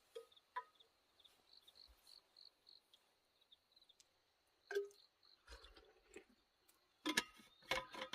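An insect chirping faintly in short high pulses, about three a second, through the first half, with scattered sharp knocks and clicks, loudest in a quick cluster near the end.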